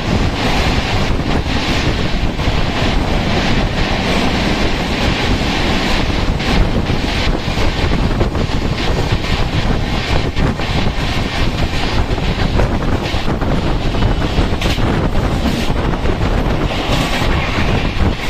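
Express passenger train running at speed, its wheels clattering over the rail joints under a steady rumble, with wind buffeting the microphone.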